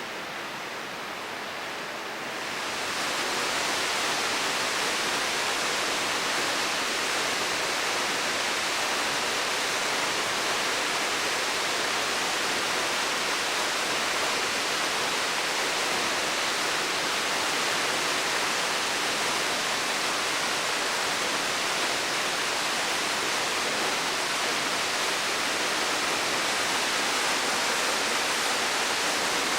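Waterfall pouring: a steady rush of falling water that grows louder and brighter about two to three seconds in, then holds.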